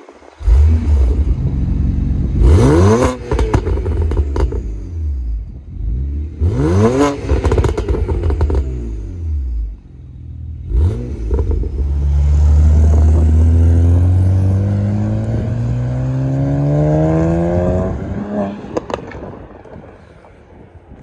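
BMW 335i twin-turbo straight-six with catless downpipes and a VRSF street exhaust, revved three times in quick blips, then pulling in one long rise in pitch that dies away near the end.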